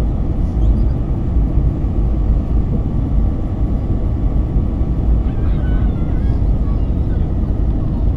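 Steady low rumble inside the cabin of an Airbus A321 airliner: engine and airflow noise, even and unbroken, with faint voices about five seconds in.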